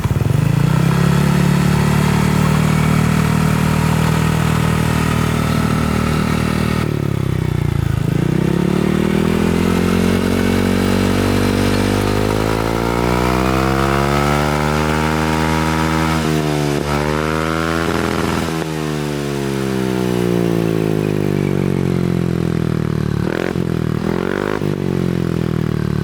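Yamaha NMAX scooter's single-cylinder engine running through an AHM Tsukigi stock-style aftermarket exhaust, the throttle held, then eased off, then opened and closed so the note rises and falls, with two short blips near the end. The exhaust note is deep and bassy, not tinny.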